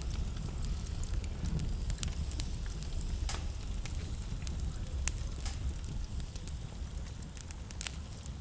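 Wood fire burning in a fireplace: a steady low rumble of the flames with irregular sharp crackles and pops, a few louder pops scattered through.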